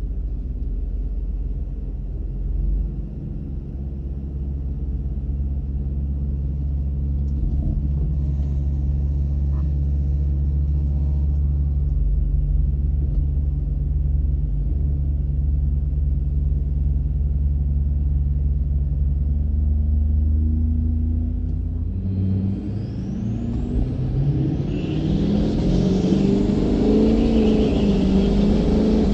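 Duramax diesel pickup engine running with a steady low rumble, then, about three quarters of the way in, it suddenly picks up and pulls hard, its pitch climbing and wavering as the truck accelerates.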